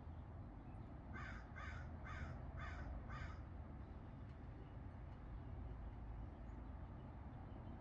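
A bird gives five quick, harsh calls in a row, about two a second, over a low steady background rumble.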